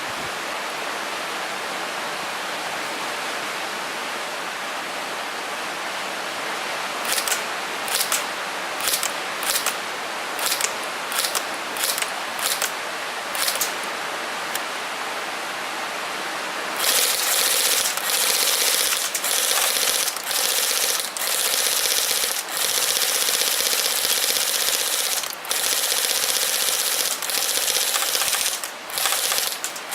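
Airsoft gun firing. First a steady hiss, then about a dozen single shots a little over half a second apart. From about the middle come long stretches of rapid fire with short pauses between bursts.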